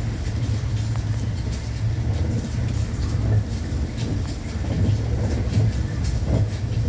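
Steady running noise heard inside the passenger car of a JR West Thunderbird limited express electric train at speed: a low rumble with faint rail ticks.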